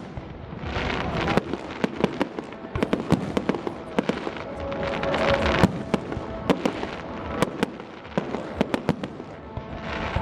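Aerial fireworks display: many sharp bangs and crackling bursts in quick succession, with swells of hissing between them.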